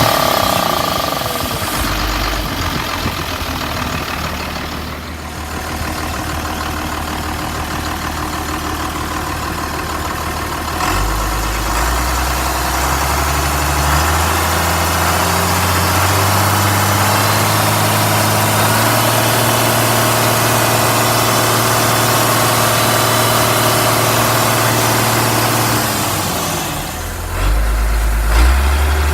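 International DT360 inline-six diesel engine running, first at a low idle, then brought up to a higher steady speed about eleven seconds in; near the end it drops briefly and picks back up.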